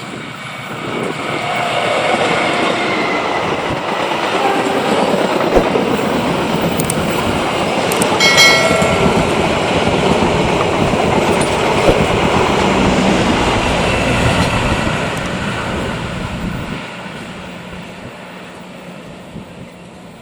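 Train passing at speed, its rolling noise building over the first two seconds, holding steady, then fading away over the last few seconds. A brief high-pitched tone sounds about eight seconds in.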